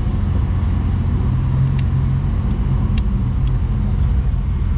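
Isuzu Trooper's engine running under load with a steady low rumble as it tows a Toyota stuck in the mud. There are two sharp clicks, about two and three seconds in.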